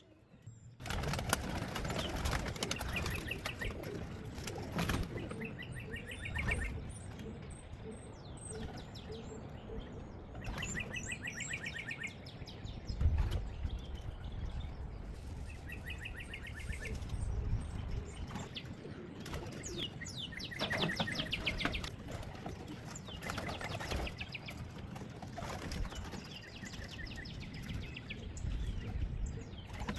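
Young racing pigeons flapping their wings as they leave the loft, with repeated short, high chirping calls among them.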